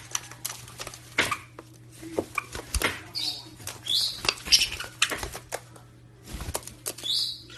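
Scattered sharp clicks and taps with a few short, high chirps from a pet parrot, over a steady low hum.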